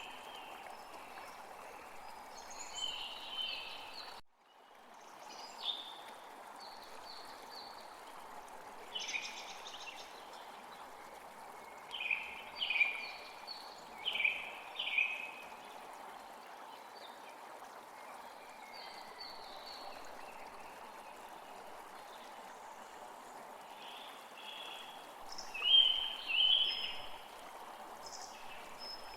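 Songbirds calling and singing in short repeated phrases over a steady background hiss, with the loudest bursts of calls around the middle and near the end. The sound drops out briefly about four seconds in.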